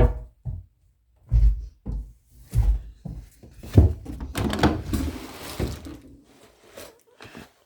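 A series of dull thumps and knocks, about five in the first four seconds, followed by a stretch of rustling and shuffling that fades out.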